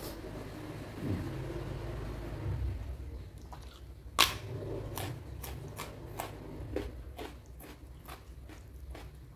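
Close-up chewing and crunching of firm, crunchy food, with one sharp crack about four seconds in followed by a run of crisp crunches roughly every half second.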